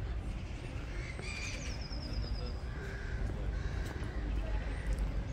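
A small bird sings one short, high trill of quick notes falling in pitch, about a second in, over a steady low rumble.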